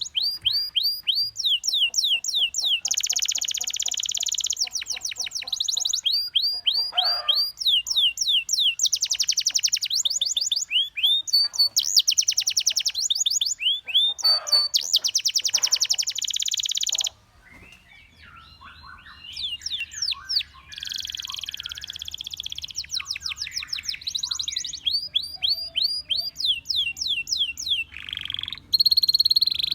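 Domestic canary singing: fast runs of repeated down-slurred whistled notes alternating with steady, buzzy rolled trills. The song breaks off briefly a little past halfway, resumes with softer twittering, then returns to the rolls.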